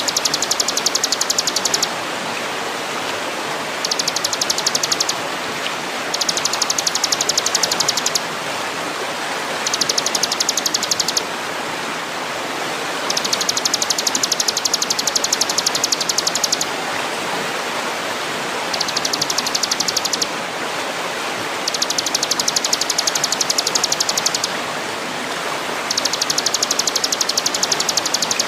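A high, very rapid ticking trill that comes in bursts of one to three seconds with short pauses between, over a steady rushing noise like running water.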